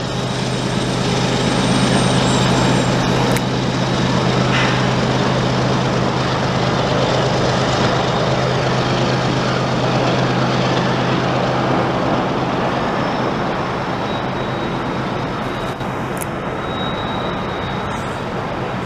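Freight train passing: a diesel locomotive's steady low engine hum over the continuous rolling noise of tank cars on the rails. The engine hum fades about twelve seconds in while the rolling noise goes on.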